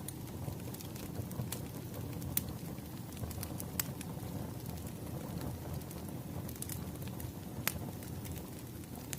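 Wood fire crackling: a steady low rush with sharp pops every second or so, one louder pop near the end.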